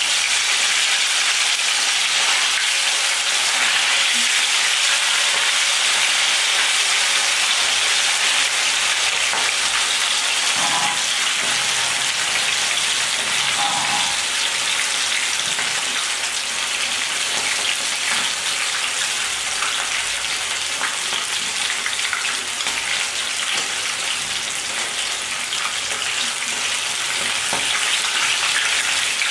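Chicken drumsticks frying in hot oil in a pan: a loud, steady sizzle that eases slightly in the second half.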